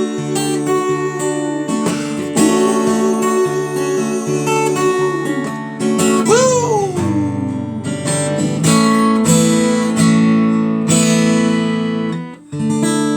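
Acoustic guitar strumming the instrumental close of a love song, with a held melody line over the chords that slides down in pitch about six seconds in. The music drops out briefly just after twelve seconds, then resumes.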